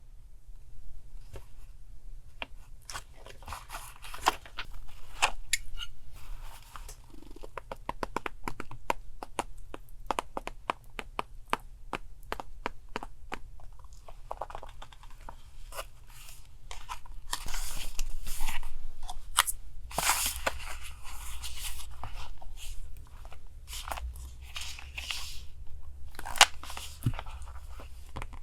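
Paper being handled for journal collage: rustling and crinkling, with many small clicks and taps, louder for a stretch about two-thirds of the way through. A steady low hum sits underneath.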